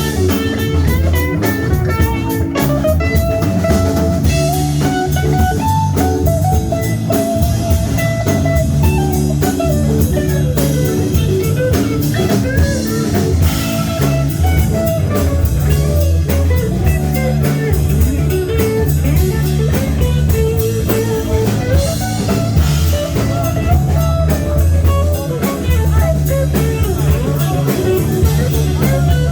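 Live bar band playing a guitar-led passage without vocals: an electric guitar line over bass and drum kit, with a blues feel.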